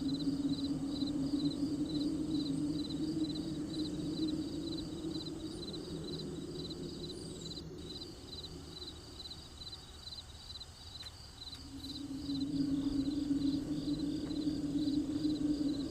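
Crickets chirping in an even, steady rhythm, a few chirps a second, with a low steady hum under them that fades away in the middle and comes back near the end.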